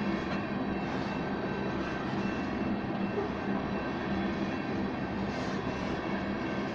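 Freight train of oil tank cars rolling past, a steady rumble of wheels on rail with several faint steady tones running through it.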